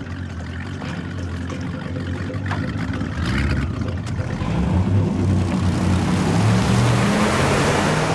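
Go-fast speedboat engines running at speed: a low engine drone under a rushing hiss of water and wind that builds and grows louder through the second half.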